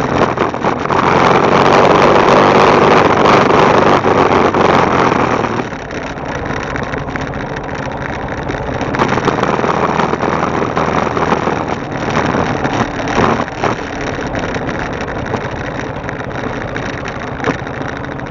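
Motorcycle engine running steadily, heard from a camera mounted on the bike, with a louder rushing noise over the first few seconds that then drops away.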